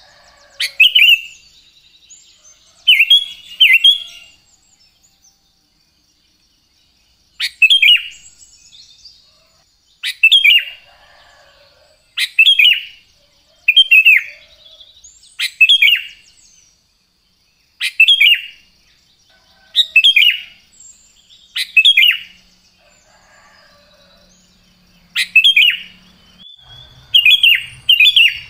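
Sooty-headed bulbul (cucak kutilang) singing: short, loud chirping phrases repeated about every two seconds, with a pause of a few seconds early on. A faint steady high tone runs underneath.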